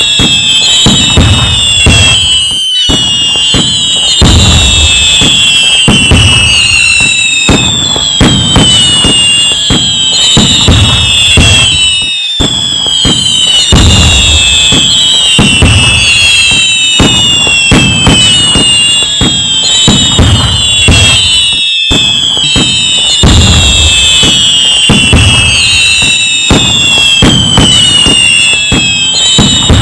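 Fireworks going off in a dense, nonstop barrage: many overlapping whistles that slide down in pitch, over constant bangs, booms and crackling. Short breaks come about every ten seconds.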